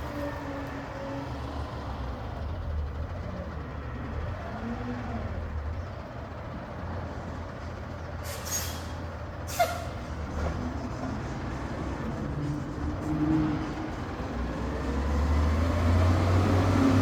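Garbage truck engine running, with two short hisses of released air about halfway through. The engine grows louder near the end.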